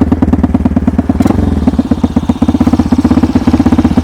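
Small engine of a homemade snowmobile idling steadily with a rapid even beat, and a single knock about a second in.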